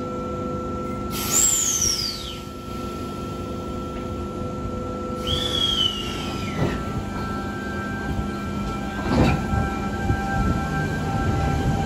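Double-deck electric train standing at the platform with a steady electrical hum. Two falling whistle-like tones come through, one about a second in and another about five seconds in. About nine seconds in there is a clunk, and then the train starts to pull away with a building rumble.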